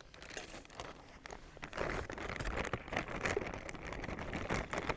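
Rustling and small knocks of camping gear being rummaged through by hand, busier from about two seconds in.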